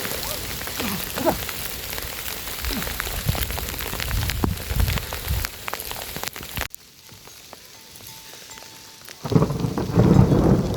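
Rain falling steadily, with the patter of many drops on hard surfaces. About two-thirds in it cuts off abruptly to a much quieter stretch, and a louder, deeper rushing sound starts near the end.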